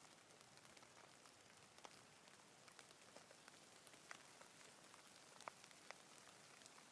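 Light rain falling: a faint, steady hiss with scattered individual drops ticking on surfaces.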